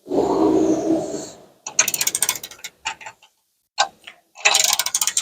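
Hand ratchet wrench clicking in short runs as bumper bolts are turned, its pawl ticking rapidly over the gear on each back-swing. It is preceded by a rougher noise lasting about a second at the start.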